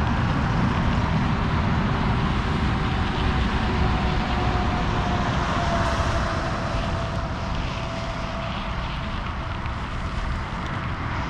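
Steady rushing noise of a bicycle ride: wind on the camera microphone and the tyres rolling on a dirt road. A faint thin tone slowly falls in pitch beneath it through the middle.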